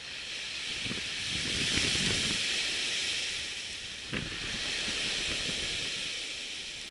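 Surf washing up a sand beach: a steady high hiss that swells twice, with a sharp click about four seconds in.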